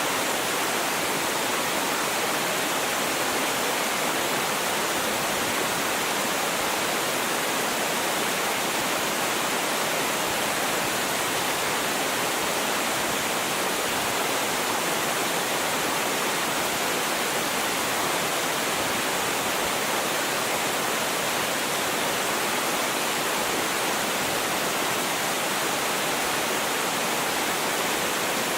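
Small mountain waterfall, more a cascading stream than a tall fall, with water rushing steadily over rocks.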